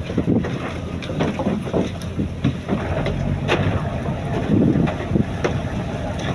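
A fishing boat's engine running steadily, with wind on the microphone and scattered irregular knocks.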